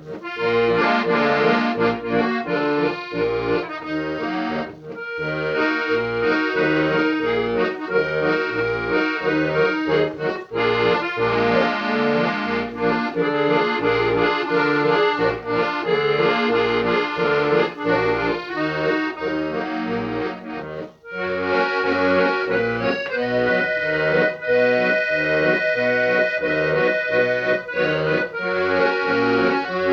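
Accordion music: a melody in held, reedy chords over a regular oom-pah bass, with a brief break about 21 seconds in.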